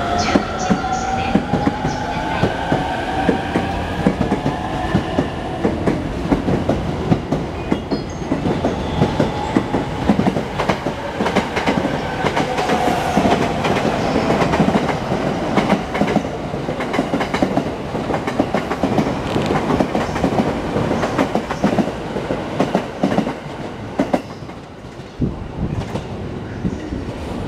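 A JR East E231-series electric train pulling away: the traction motors' whine rises in pitch over the first several seconds, with the wheels clacking over rail joints throughout. The noise drops off near the end as the last cars pass.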